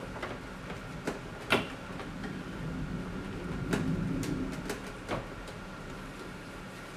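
Scattered sharp clicks and knocks of wiring and parts being handled while the engine wiring harness is worked loose, the loudest about a second and a half in, over a steady low hum.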